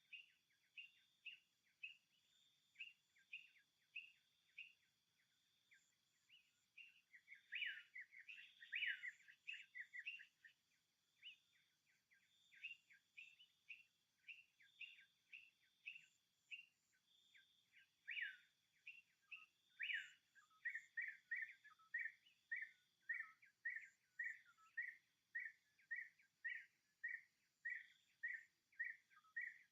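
Repeated short, high chirping calls from a small animal, irregular at first, then settling into a steady run of about two chirps a second, over a faint steady high hum.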